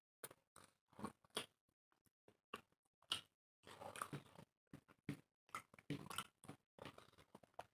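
Close-miked chewing, lip smacks and crunching of people eating dry roti and chicken curry by hand, heard as short irregular clicks that come thicker in two stretches mid-way.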